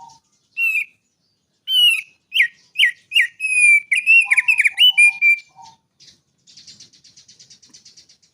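A songbird singing a run of loud, quick sliding whistles, then a fast, quieter trill near the end.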